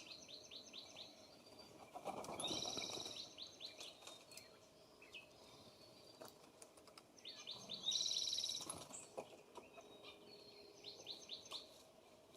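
Small songbirds at a feeder singing and chirping: four bursts of quick repeated high notes, spaced a few seconds apart.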